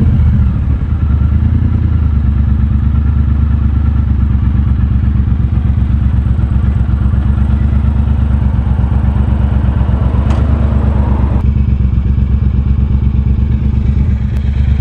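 Triumph Bobber's 1200 cc parallel-twin engine running at low, steady revs with an even throb. A brief knock comes about ten seconds in.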